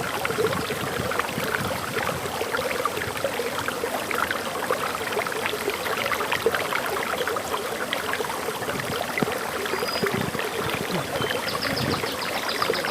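Water running and splashing over a forest waterfall in a steady rush. Near the end a bird sings a quick run of repeated high notes over it.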